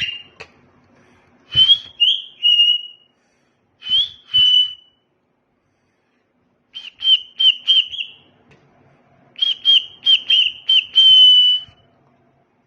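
Cockatiel whistling in four short bursts of quick, clipped notes, the last ending in a longer held note, with a couple of low bumps among them.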